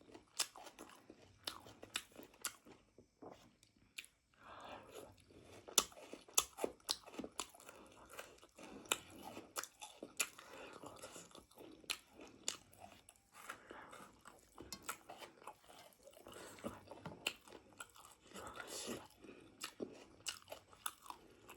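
Close-up mukbang eating sounds: chewing spicy pork with gravy, with repeated wet smacking clicks and crunches of biting through meat and skin.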